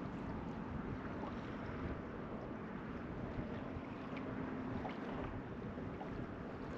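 Wind buffeting and water lapping around a small fishing boat, a steady rushing noise, with a faint steady hum underneath.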